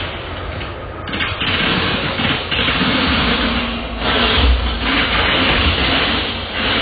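A train running past on the rails: a steady, loud rumble and rushing noise that swells and eases a few times.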